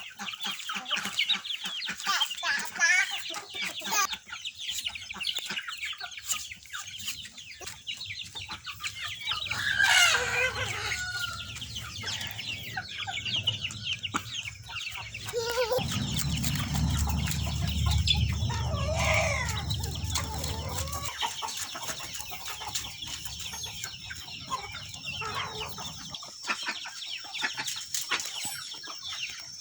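Chickens clucking and calling, with a rooster crowing. A low rumble runs for several seconds in the middle, and a thin steady high tone comes in during the second half.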